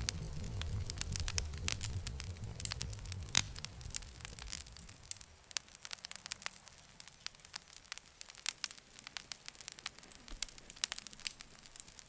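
Wood campfire crackling, with frequent sharp pops and snaps. A low rumble of the flames under the crackle fades out about five seconds in, leaving the crackling on its own.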